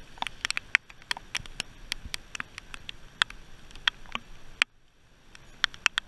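Raindrops striking in irregular sharp ticks, several a second, over a low hiss that suddenly drops away about three-quarters of the way through.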